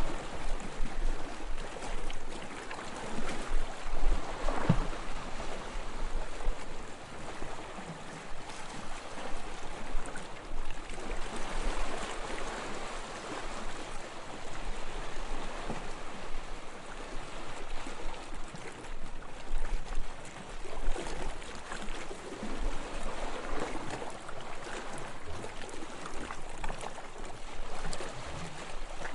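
Sea water washing and lapping: an uneven rush of water noise that swells and falls every second or so.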